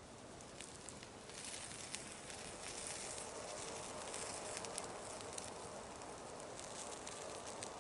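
Campfire crackling: many sharp pops and snaps over a steady hiss that grows louder about a second and a half in.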